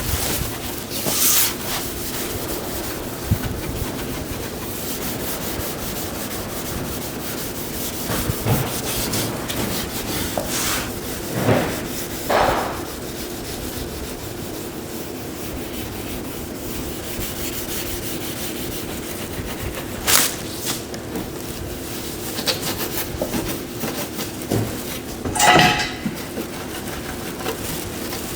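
Short, scraping rubbing strokes on a car body panel during paintwork, a few at a time, over a steady low hum.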